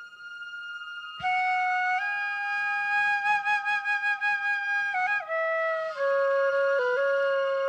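Slow flute melody of long held notes. A quiet held tone is joined about a second in by a loud note that wavers with vibrato, and the melody then steps down in pitch twice.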